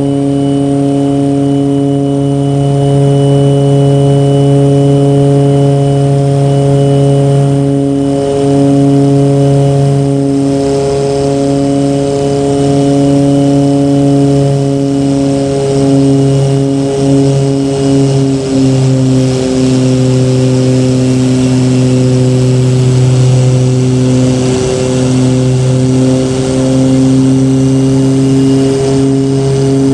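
Propeller aircraft engine droning steadily in flight, its pitch easing down slightly about two-thirds of the way through.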